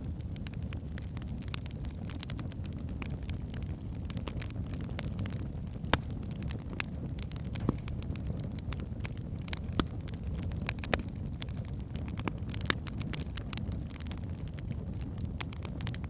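Wood fire burning in a fireplace: a steady low rumble of flames with irregular crackles and sharp pops from the logs, a few pops louder than the rest.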